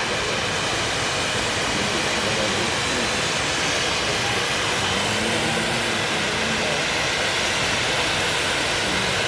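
Steady hissing roar of a fireworks display, with no separate bangs, over the murmur of a crowd.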